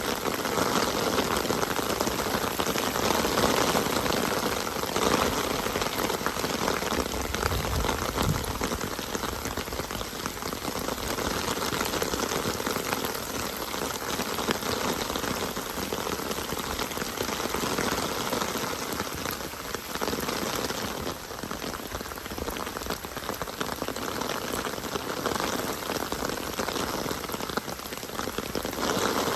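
Steady rain falling: an even hiss of many drops that swells and eases slightly.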